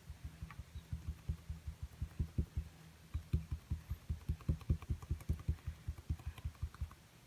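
Rapid soft, low thuds, several a second, of paint being dabbed onto a small stretched canvas. They grow louder through the middle and ease off near the end.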